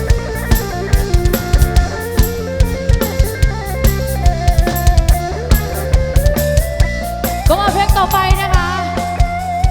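Live band playing an instrumental break: a drum kit keeps a steady beat with kick and snare over bass, under a lead melody line that bends and wavers in pitch near the end.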